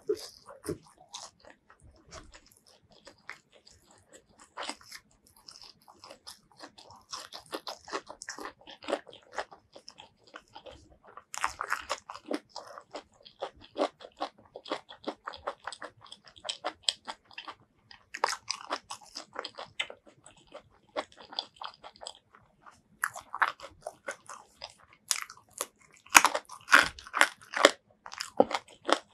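Close-miked chewing of crunchy food: a dense run of crisp crunches and wet mouth clicks, coming in louder bouts of biting, the loudest near the end.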